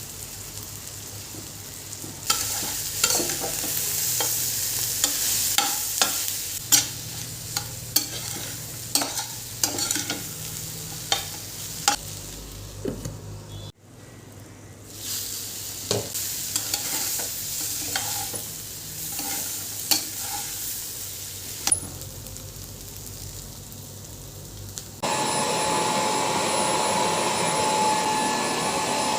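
Food frying with a steady sizzle while a spatula stirs it, scraping and tapping against the pan many times. There is a brief break about halfway. Near the end a small motor appliance starts and runs steadily with a whine.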